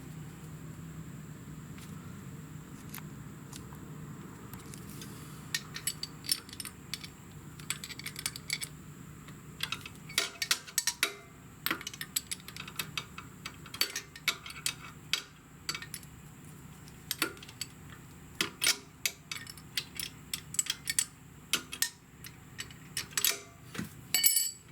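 Wrench working a lock nut on the motorcycle's rear brake pedal linkage: irregular sharp metallic clicks and clinks that begin about five seconds in, over a faint low hum.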